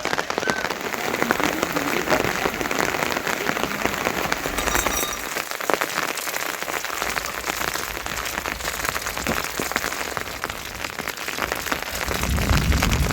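Heavy monsoon rain falling: a dense, steady patter of many drops, with a low rumble coming in near the end.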